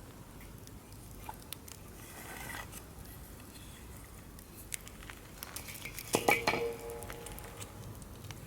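Wood fire crackling with scattered pops while firewood is added: about six seconds in, logs clunk and knock onto the burning pile, the loudest knock followed by a brief ringing.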